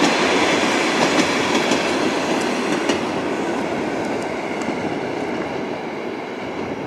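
A train passing, its wheels rattling over the rails with scattered sharp clicks, the noise slowly fading as it moves away.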